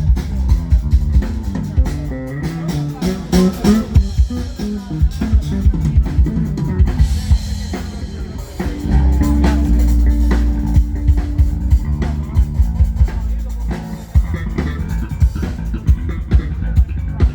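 Drum kit and bass guitar playing a groove together for a band sound check, with steady kick and snare hits under the bass line. About nine seconds in the bass holds one long low note for a few seconds.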